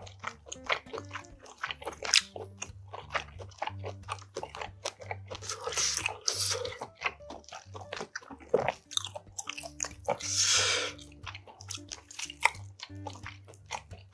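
Close-miked eating: a quick run of crisp crunching clicks from biting and chewing mouthfuls of rice wrapped in crisp seasoned laver with salted seafood, with the dry laver sheets crinkling as they are handled.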